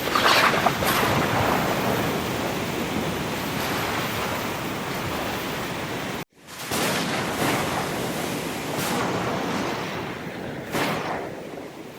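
Ocean surf: a steady wash of waves with a few louder breakers surging in. It drops out abruptly for an instant about six seconds in, then returns.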